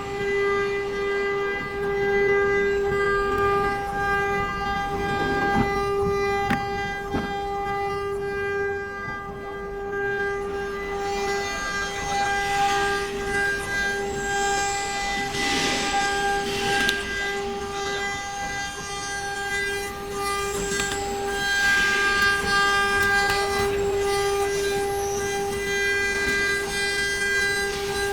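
CNC router spindle running at a steady high-pitched whine while the bit carves wood, with swells of cutting noise every few seconds as the tool works through the material.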